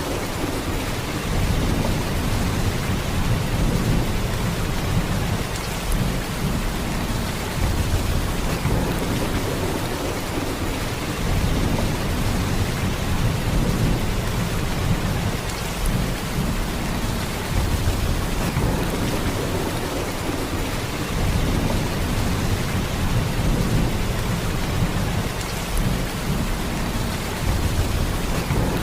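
Heavy rain falling in a steady downpour, a dense hiss with a deep low rumble underneath that swells and eases every few seconds.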